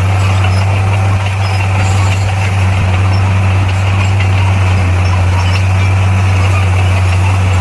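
Heavy earthmoving machine's diesel engine running steadily, a constant low drone.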